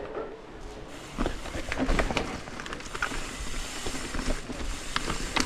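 Hardtail mountain bike riding down a dirt trail: tyres running over dirt and roots, with frequent rattles and knocks from the bike over bumps, busier from about a second in.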